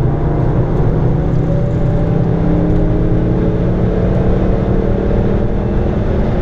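Ford Focus ST's engine heard from inside the cabin, accelerating with its note rising slowly and then holding steady near the end.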